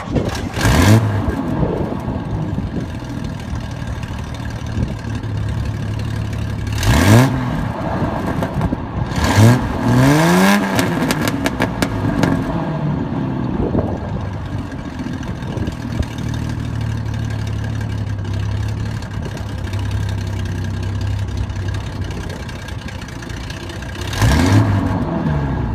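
1973 Triumph TR6's straight-six engine idling steadily, blipped on the throttle five times. Each blip is a short rev that rises and falls back to idle: one about a second in, a few close together in the first half, the largest among them, and one near the end.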